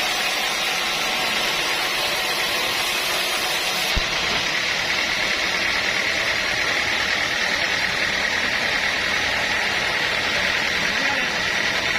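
Sawmill machinery running steadily with a dense, even mechanical noise. About four seconds in there is a single knock, and after it the sound changes: the highest hiss drops away and a steady high hum comes up.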